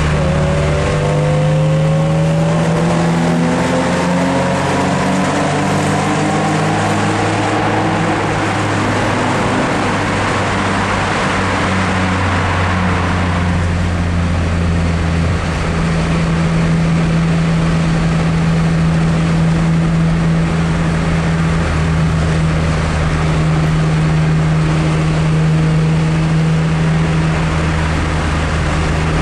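A BMW 330i ZHP's straight-six engine through a new 3-inch exhaust. It rises in pitch as it accelerates over the first several seconds, then settles into a steady drone while cruising.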